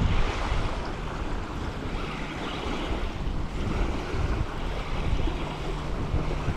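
Gusty wind buffeting the microphone, an uneven low rumble under a steady rushing hiss.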